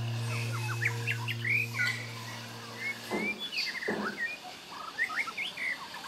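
Birds chirping: many short, quick whistled notes, some sweeping up and some down, in a busy irregular chorus. A held low musical tone fades out over the first half.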